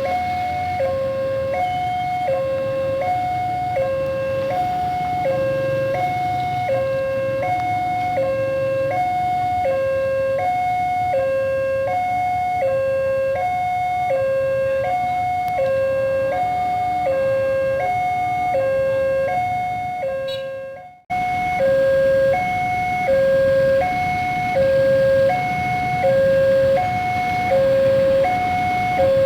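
Railway level-crossing warning alarm sounding a steady two-tone signal, a higher and a lower note taking turns about once a second, over a low rumble. The alarm drops out for a moment about 21 seconds in, then carries on.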